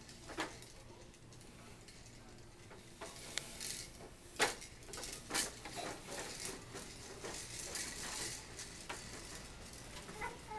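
Scattered light clicks and knocks, irregular and short, over quiet room tone, loudest a few seconds in.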